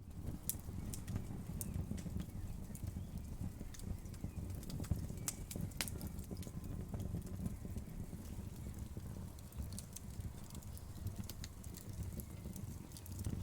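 Wood fire crackling, with irregular sharp pops and snaps over a low, steady rumble of flames.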